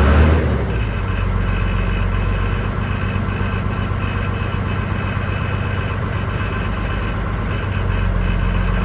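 1994 Ford F700's 5.9 Cummins inline-six diesel running at idle shortly after a cold start. A brief louder surge comes right at the start, then it settles into a steady run.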